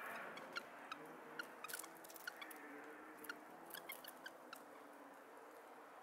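Scattered short, sharp ticks and chip notes from small forest birds, irregular at about two or three a second, over a faint low hum.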